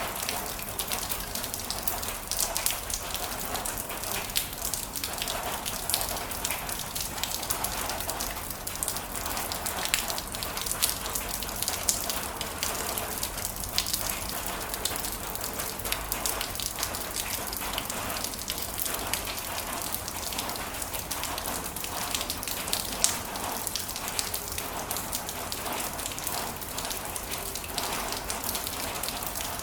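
Heavy rain falling steadily, a dense patter of drops with close individual drop hits.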